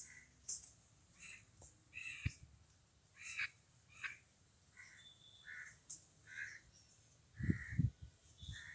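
Birds calling over and over, short harsh caws about once or twice a second, with a few low thumps near the end.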